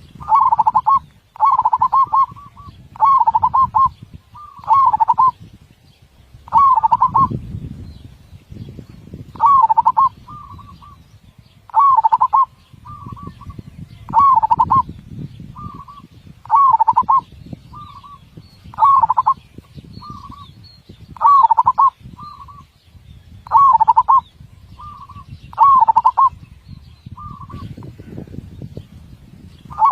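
Zebra dove (perkutut) cooing: a loud phrase of rapid, close-set coos at one pitch, repeated about every two seconds, with short softer single coos between the phrases from about a third of the way in. A low rumbling background noise runs underneath.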